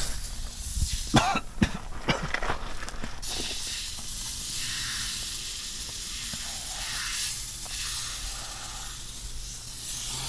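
Aerosol can of oven cleaner spraying in a steady hiss, a few clicks near the start, while it is being emptied onto a greasy engine.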